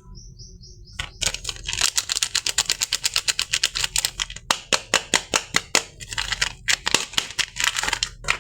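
Soap packaging being handled and opened: a dense run of crisp clicks and crackles, about eight a second, starting about a second in.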